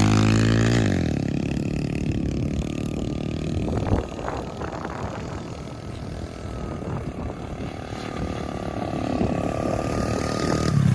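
Pit bike engine revving hard on a launch, its pitch climbing steeply through the first second, then running on much fainter and rougher. There is a single knock about four seconds in.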